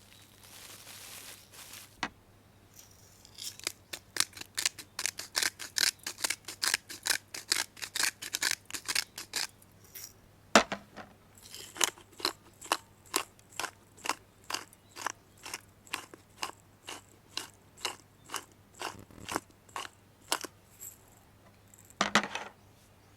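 Food being cut with a blade in quick, even strokes, about three a second. The cutting comes in two runs of several seconds each, with a sharp knock in the short break between them.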